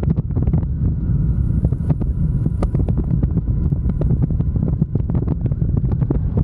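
Wind buffeting the microphone on a moving motorcycle, a dense low rumble with constant crackling gusts, over the motorcycle's running engine and road noise.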